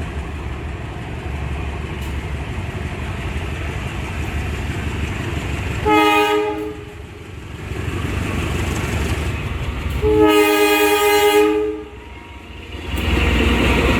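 Train at a station sounding its multi-tone horn twice, a short blast and then a longer one of almost two seconds, over the low, steady rumble of the train running.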